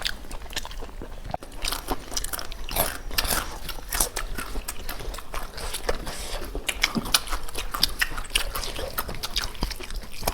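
A person biting and chewing cooked chicken close to the microphone: a steady, irregular run of short wet clicks and crunches.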